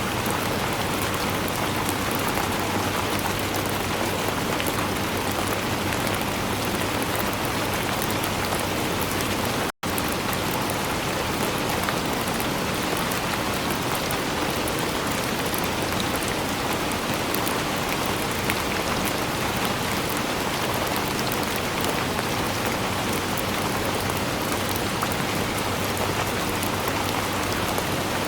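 Steady heavy rain falling, a dense even hiss of many drops. About ten seconds in it cuts out for a split second.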